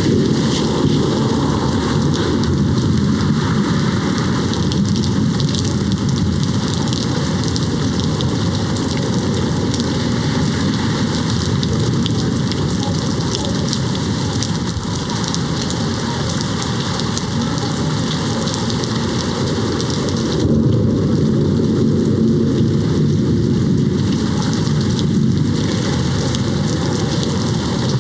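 Steady rain hitting a window, with a low rumble of distant thunder swelling up about two-thirds of the way through.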